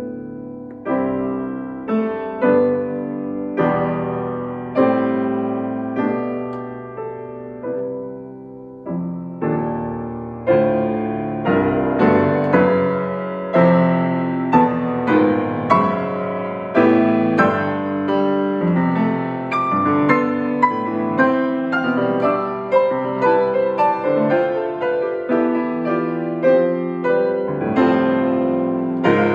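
Solo piano playing a slow classical piece, notes struck and left to ring and decay; after about ten seconds the notes come faster and fuller.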